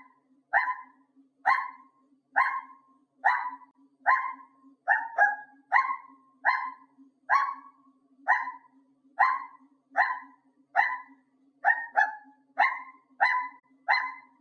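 Dog-like barking, repeated about once a second with some barks in quick pairs, over a steady low hum.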